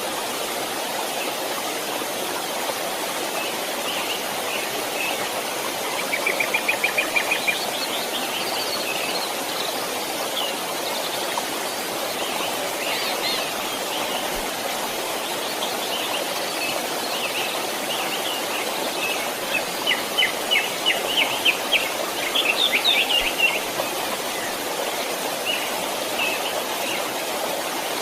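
Steady rush of a flowing stream, with birds singing over it: a fast trill about six seconds in, and a run of quick repeated chirps from about twenty to twenty-three seconds in.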